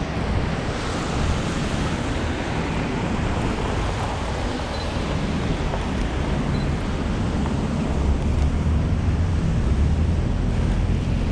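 Blizzard wind buffeting the microphone: a steady rushing noise with a low rumble that grows a little stronger about eight seconds in.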